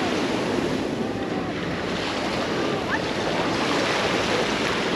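Mediterranean surf washing onto a sandy beach: a steady rush of waves, with faint voices of beachgoers in the background.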